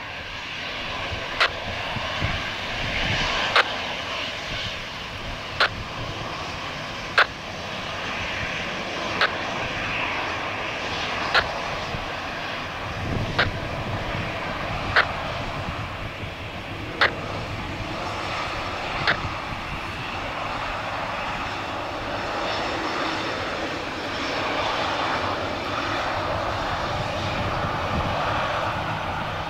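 Jet airliner's engines at takeoff power, a steady rushing noise as the TAP Portugal jet rolls and departs after its takeoff clearance. Sharp clicks come evenly about every two seconds over it.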